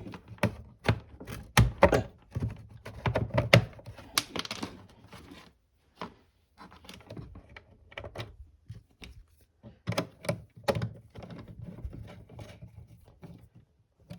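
Irregular clicks and knocks of a 1970s Panasonic R-1551 AM radio's case and back plate being handled, with a short scrape about four seconds in.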